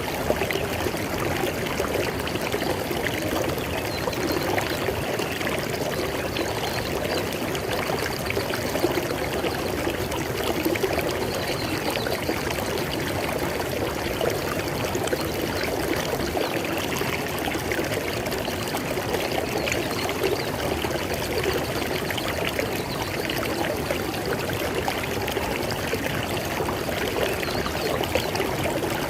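River water flowing steadily over rocks, a continuous rushing and splashing with no breaks.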